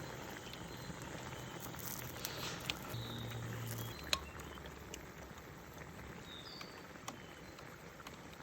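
Quiet outdoor background with a few faint, short high chirps and scattered light clicks and taps.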